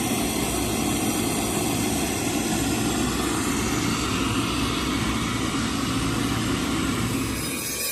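An engine running steadily, stopping suddenly near the end.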